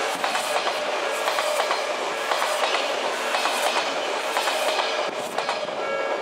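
Odakyu electric train passing close by, its wheels clattering rapidly over the rail joints in a steady, dense rumble.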